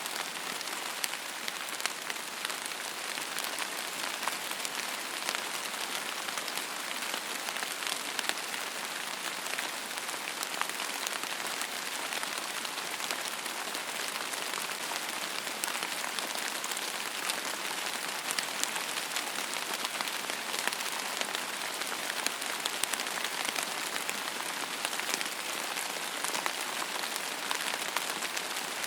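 Steady rain falling on a surface, a dense even hiss with many small drop impacts ticking through it.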